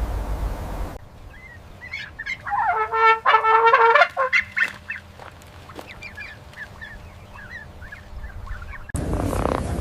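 Geese honking: a quick run of loud, brassy honks lasting about a second and a half, with faint high chirps of small birds around them. A steady noisy rumble cuts off about a second in, and a different rough, noisy sound starts near the end.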